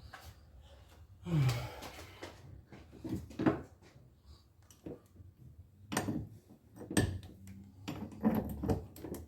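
Metal hand tools clinking, knocking and scraping at irregular intervals, as a wrench is changed and set to work on a suspension bolt.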